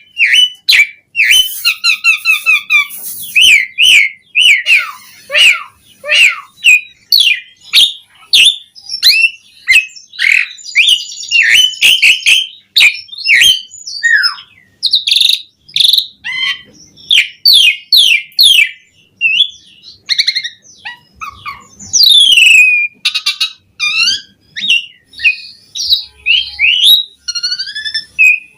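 Asian pied starling (jalak suren) singing loudly in full, varied song: a fast, almost unbroken string of short whistles, rising and falling glides, rasping notes and sharp clicks.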